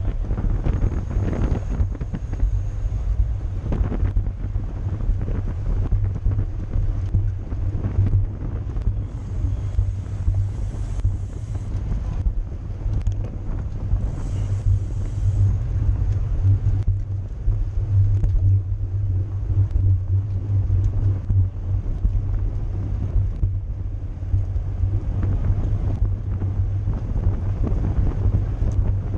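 Wind buffeting the microphone of a camera on a moving racing bicycle: a steady, heavy low rumble with fainter rushing noise above it.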